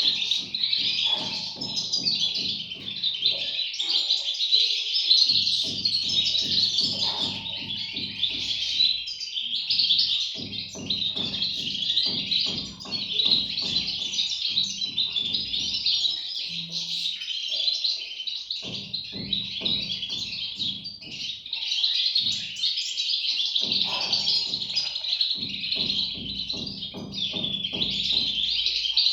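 European goldfinch chicks chirping in a dense, continuous high chorus, with many overlapping calls.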